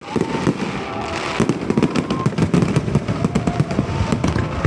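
Fireworks going off in a dense, rapid barrage of bangs and crackles.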